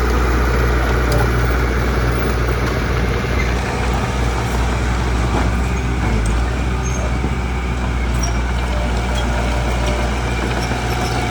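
Heavy construction machine's engine running steadily with a low, even note.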